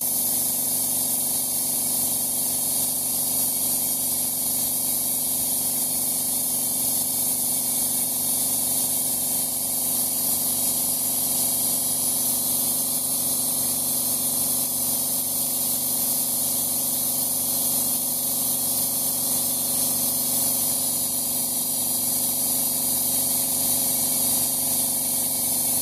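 Powered paint sprayer running steadily: a continuous hiss of spraying paint over an even motor hum, without pause.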